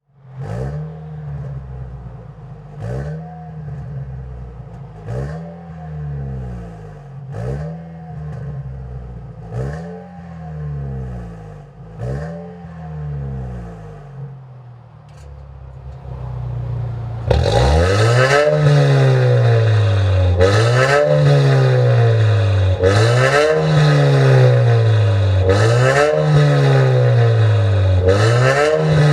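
Lexus IS300 engine revved repeatedly through a Stone Exhaust valved cat-back exhaust, one blip about every two seconds. The revs are muted at first; about 17 seconds in, the sound jumps suddenly to a much louder, brighter note as the exhaust valves open, and the blips carry on.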